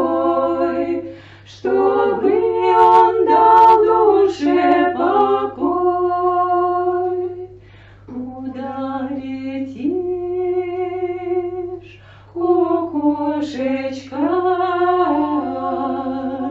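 A small women's vocal ensemble singing an old Russian song a cappella in close harmony. The notes are long and drawn out, with three short pauses in the singing.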